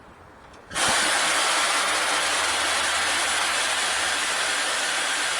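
Steady loud hiss of rushing air that starts abruptly about a second in and holds even, with no rhythm or pitch.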